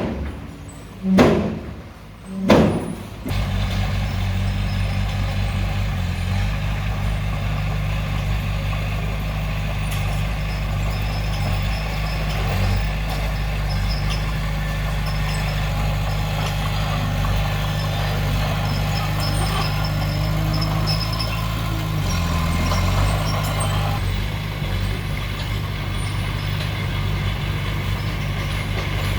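Heavy diesel earthmoving machinery running steadily after three short loud bursts in the first few seconds; the engine note shifts briefly about three quarters of the way through.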